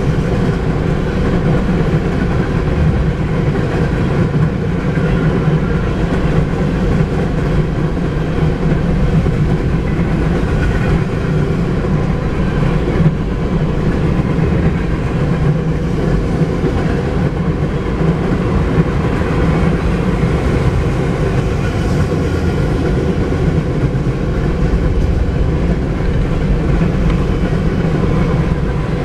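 Freight cars of a mixed manifest train rolling past steadily, with a continuous rumble and rattle of steel wheels on rail.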